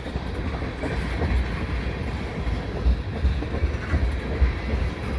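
Freight train's cars, mostly tank cars, rolling past close by: a steady low rumble of wheels on the rails, with a couple of sharper clacks about three and four and a half seconds in.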